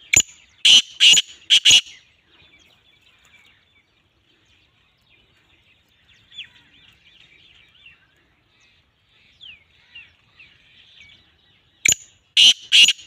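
Black francolin calling: a short sharp note followed by three loud harsh notes within about two seconds, the whole phrase repeated near the end. Faint twittering of small birds in between.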